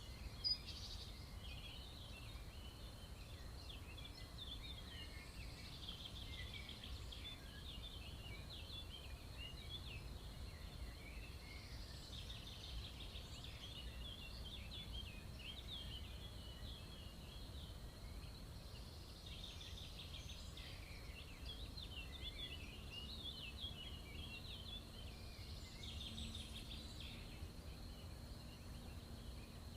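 Faint birdsong: bouts of rapid high chirping notes that come and go every several seconds, over a low steady rumble.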